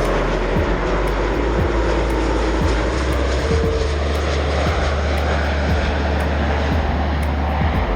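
Jet airliner's engines as it passes close: a loud, steady rush of engine noise, with background music underneath.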